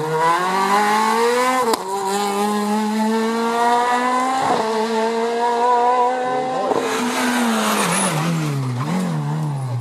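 Rally car engine at full throttle, climbing in revs with two quick upshifts, then the revs fall away under braking with throttle blips on the downshifts, and a burst of tyre noise as it brakes.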